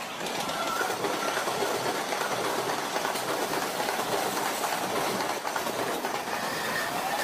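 Electric train running over rail joints and points: a steady rumble with rapid clicking of the wheels. Near the end a whine rises in pitch.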